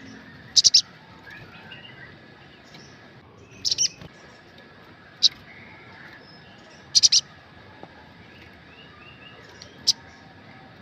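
Olive-backed sunbird (sogok ontong) calling: sharp high chirps in five bursts, some in quick runs of two or three notes, with softer bird twittering faintly behind.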